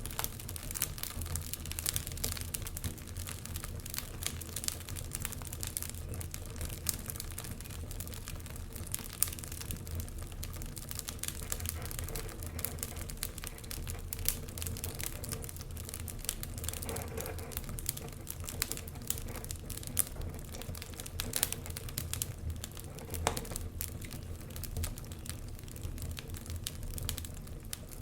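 Wood fire burning in a fireplace, crackling with many small irregular pops over a low steady rumble.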